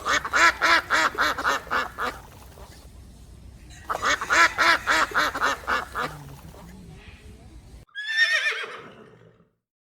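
Two bouts of rapid quacking from a duck, each a run of about eight quick calls, about two seconds apart. Near the end a horse whinnies once, the call sliding down from high to low over about a second and a half.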